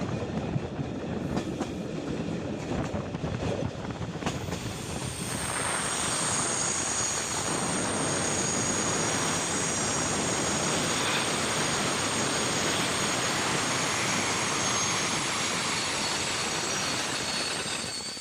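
Passenger train coaches running on the rails, heard from an open window, with wheel rumble and rail-joint clicks. About five seconds in the running noise grows louder, and a steady high-pitched wheel squeal sets in and holds.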